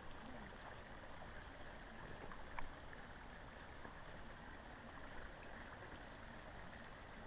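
Faint, steady flowing water of a creek, with a single small click about two and a half seconds in.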